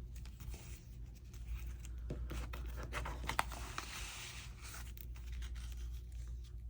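Paper being handled and shuffled, with rustling, sliding and small scrapes that are busiest about two to four seconds in, over a steady low hum.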